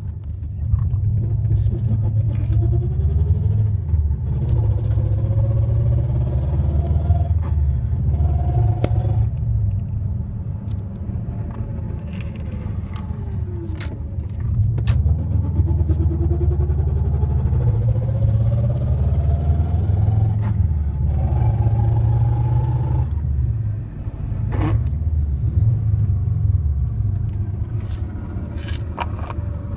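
Subaru WRX driving, with a steady low rumble and a whine that climbs in pitch over a few seconds and drops back several times as speed changes, plus scattered sharp clicks. It is the car whose owner reports a weird transmission sound, with 4th and 5th gear not engaging.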